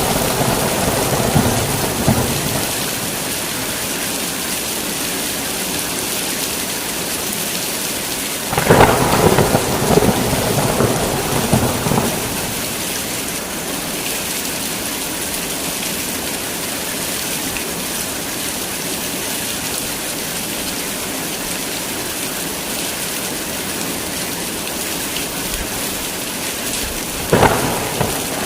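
Heavy rain falling steadily through a thunderstorm, with rolls of thunder: one dying away at the start, a long one from about 9 to 12 seconds in, and a short clap near the end.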